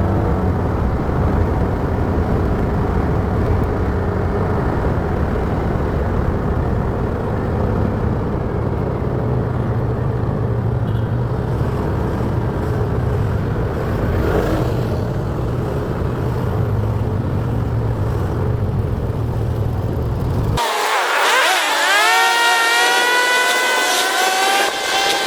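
Motorcycle engine running with steady road and wind noise while riding. Near the end the low rumble cuts out suddenly for about five seconds, replaced by a high whine of several tones that rise and then level off.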